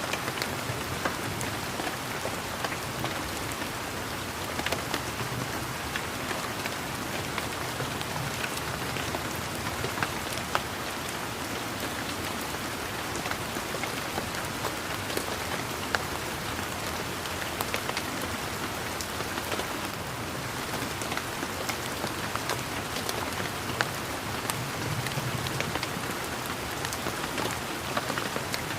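Steady rain falling on leaves and garden surfaces, a continuous hiss with many close individual drops ticking and pattering.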